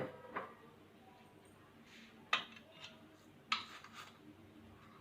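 Kitchen utensils clinking and knocking against a cooking pan or containers, about six light knocks with a brief metallic ring.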